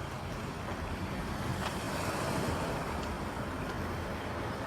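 Wind rumbling on the microphone over outdoor street noise, a steady haze that swells a little around the middle.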